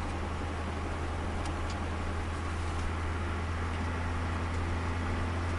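Turbocharged Nissan Micra's engine running at steady low revs, heard from inside the cabin as a constant low drone over tyre and road noise.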